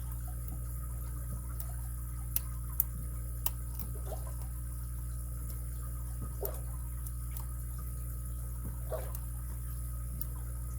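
A few small, sharp metal clicks, with soft scrapes between them, from lock picks working the pins of a padlock. Under them runs a steady low hum.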